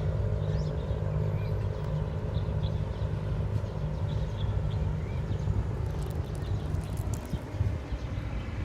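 Steady low outdoor rumble, like a running engine or nearby traffic, with faint short high chirps now and then.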